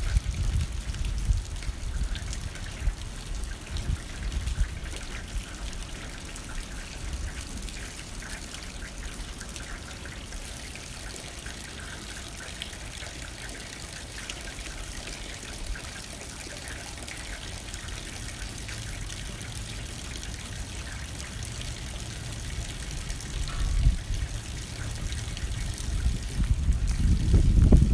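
Rain pattering steadily against a window pane, with wind gusting in a low rumble that eases through the middle and swells again near the end.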